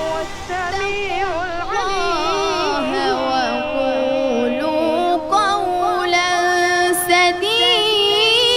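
Music led by singing voices: a winding melody with several voices layered over one another.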